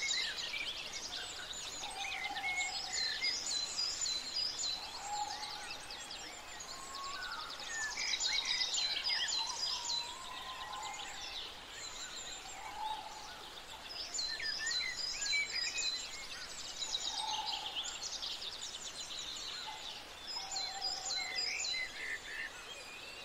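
Several birds chirping and trilling at once, high quick phrases overlapping throughout, with a lower call coming in now and then.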